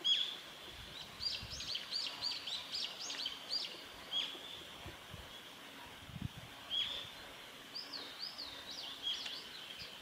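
A bird calling: a sharp high note at the start, then a quick run of short chirps, about three a second, a few scattered notes, and a second run near the end.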